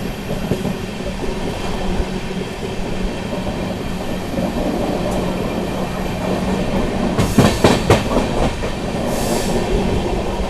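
Passenger train coach running over the track: a steady rumble of wheels on rails, with a cluster of sharp clacks about seven seconds in as the wheels cross rail joints. The diesel locomotive hauling the train is too far ahead to be heard.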